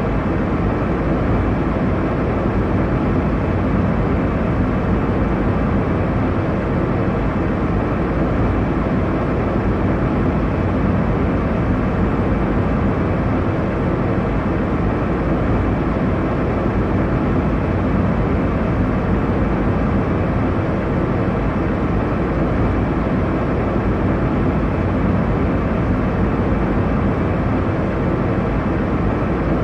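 Airliner cabin noise: a steady, unbroken rumble and rush of engine and airflow, heaviest in the low end, with no changes or separate events.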